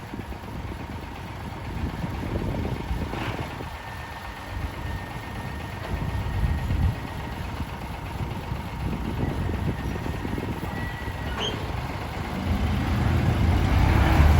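Diesel engine of a ten-wheel dump truck running with a low rumble, growing louder over the last couple of seconds as the truck draws closer.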